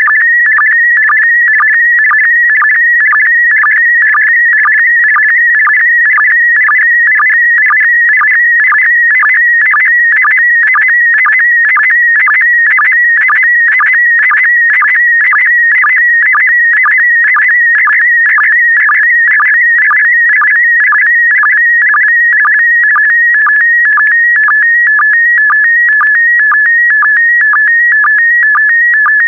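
PD120 slow-scan television (SSTV) image signal: a continuous high, rapidly warbling tone whose pitch shifts with the brightness of the picture being sent. It is broken by a short sync beep about twice a second, one for each pair of image lines.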